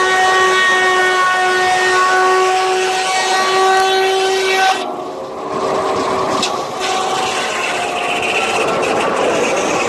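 Steam whistle blowing one long, steady note that cuts off sharply about halfway through. A quieter rushing noise with faint tones follows.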